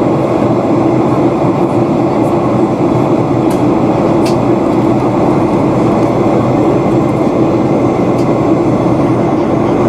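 Steady cabin noise inside a Boeing 737-800 under way: a constant, even drone of CFM56-7B engines and rushing air, with faint ticks of cabin rattle.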